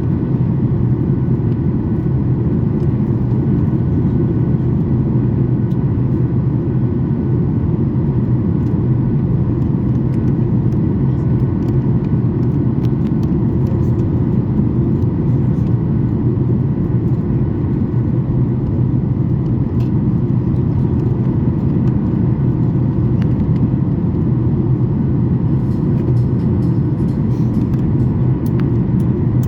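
Steady in-flight cabin noise aboard a Boeing 737 MAX 8: an even, deep rumble of airflow and its CFM LEAP-1B engines, with a few faint steady tones above it.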